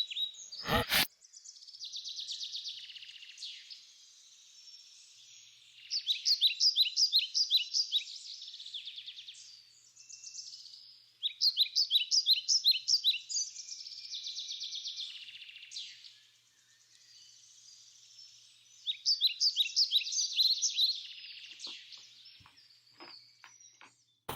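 Birds chirping: a continuous high twittering with three louder runs of rapid repeated chirps, each lasting about two seconds. A single sharp click comes about a second in.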